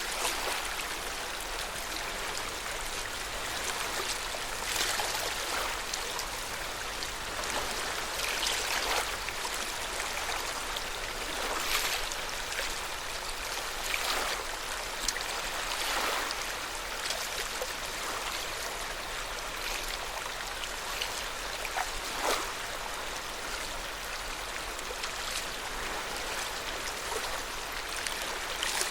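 Small waves lapping at the shore of Lake Yamanaka: a steady wash of water, with an irregular splash or slap every second or few.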